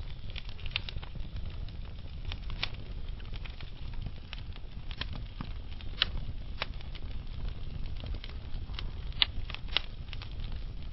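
Wood fire burning in a fireplace: a steady low rumble of flames with irregular sharp crackles and pops from the burning logs, the loudest about six and nine seconds in.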